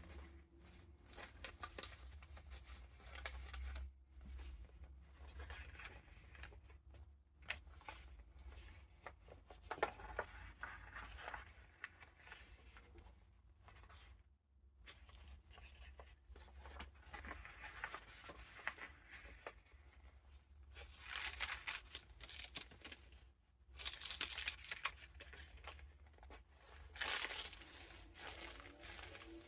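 Paper pages and vintage ephemera of a junk journal being turned and handled, rustling and crinkling in irregular bursts, over a faint low steady hum.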